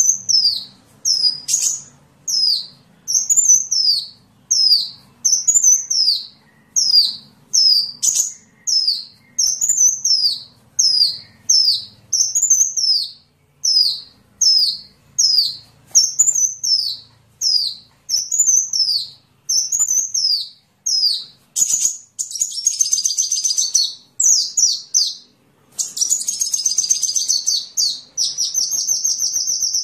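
Sunbird song (Indonesian 'kolibri'): a series of high, short, down-slurred chirps about one a second, breaking after about twenty seconds into rapid chattering trills and a long fast trill near the end.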